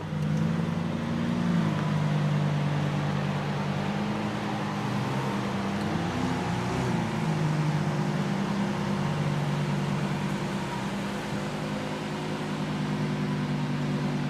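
Lamborghini Centenario's naturally aspirated 6.5-litre V12 running at a steady low engine speed, its pitch lifting and settling slightly about a second and a half in and again around six to seven seconds.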